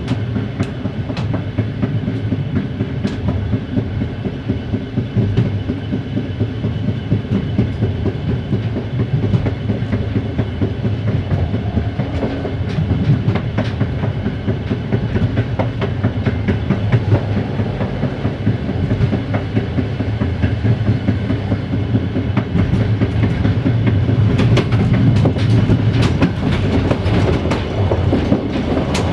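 Train rolling over jointed track, with a steady clickety-clack of the wheels and many short clicks over the low, even drone of an LDH1360 diesel-hydraulic locomotive; it grows somewhat louder in the last few seconds.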